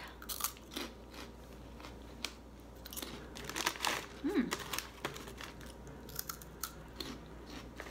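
Crunching and chewing of airy puffed potato sticks, a string of irregular crisp bites, with the crinkle of the snack bag as a hand reaches in for more. A short closed-mouth "mm" about four seconds in.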